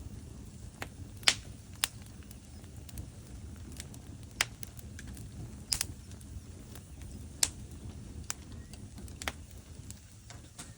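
Wood fire burning in a fireplace: irregular sharp crackles and pops from the burning logs, about half a dozen louder ones, over a low steady rumble of the flames.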